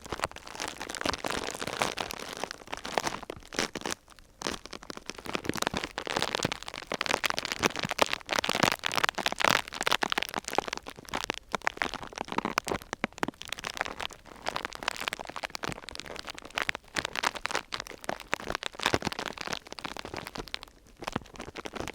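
Close-miked crinkling and crackling of thin plastic or paper sheet being handled, a dense run of small crackles that is loudest around the middle and thins out near the end.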